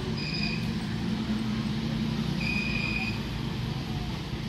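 Electric local train (EMU) passing close by: a steady low rumble and hum of wheels and motors on the rails, with two brief high-pitched squeals, one about half a second in and a longer one about two and a half seconds in.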